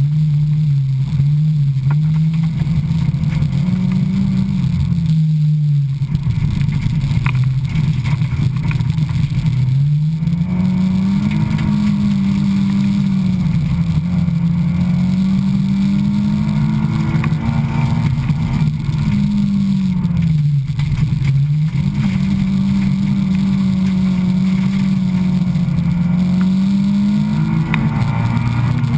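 Honda Civic race car's engine heard from inside the cabin at racing speed on a dirt track, its pitch rising and falling continuously as it accelerates and backs off for corners. Revs drop sharply and briefly about five, ten and twenty seconds in.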